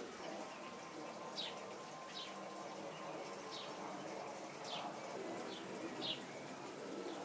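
A bird calling faintly, a short high note that falls in pitch, repeated about once a second, over a steady background noise.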